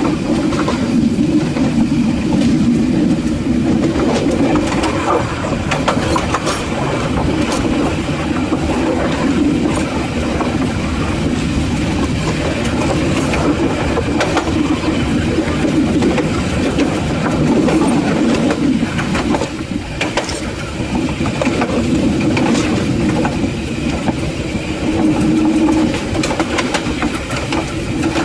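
Train running along the track: a steady rumble, with the wheels clicking over rail joints now and then.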